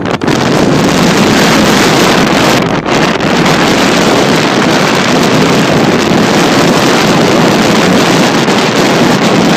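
Strong blizzard wind blasting straight onto the microphone as a loud, continuous rush of noise.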